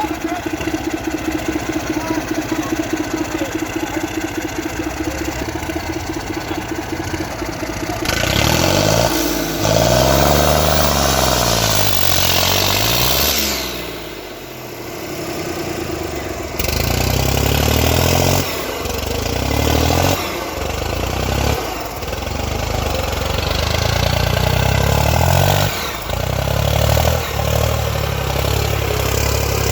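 Escort 340 tractor's diesel engine running steadily, then from about eight seconds in revving hard, its pitch swinging up and down. Repeated surges and short drops follow as it drags a double harrow under heavy load.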